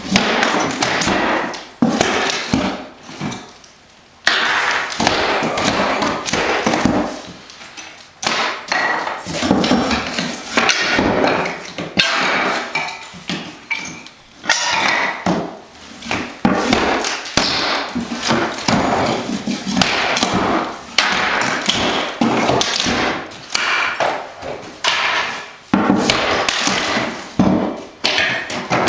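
Old hardwood floorboards being ripped up with a hammer and pry bar: repeated irregular knocks and blows, with scraping between them.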